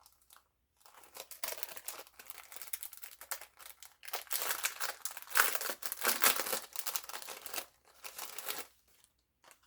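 Crinkling and tearing of a cutting die's retail packaging as it is handled and opened, loudest in the middle and stopping about a second before the end.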